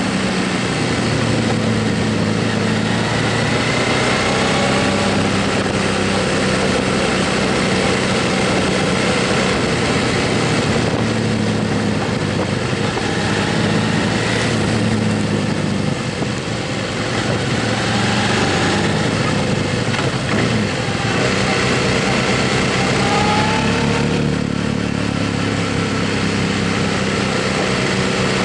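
Motorcycle engine running while riding, its note rising and falling a few times, under a steady rush of wind noise.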